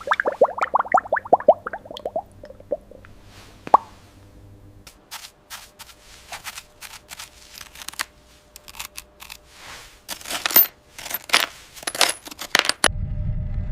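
A quick run of small metallic clinks, like coins or loose metal pieces tumbling, over the first couple of seconds, followed by scattered sharp clicks and taps. A low rumble starts about a second before the end.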